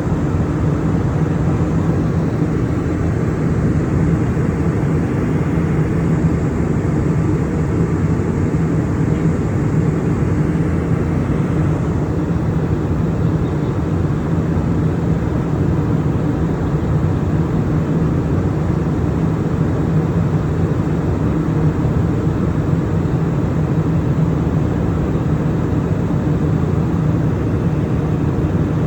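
Steady, unchanging drone of an airplane heard from inside the passenger cabin, deep and even throughout.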